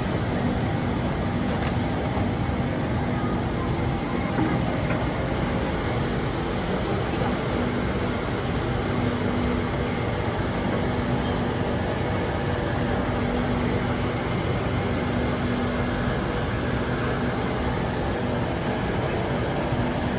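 Interior of a Singapore MRT Circle Line train in motion: a steady rumble of wheels and running gear, with a constant low hum.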